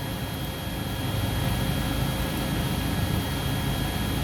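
Steady machine hum and hiss with a thin high whine from a CNC mill standing powered on, before its cycle is started. It grows slightly louder about a second in.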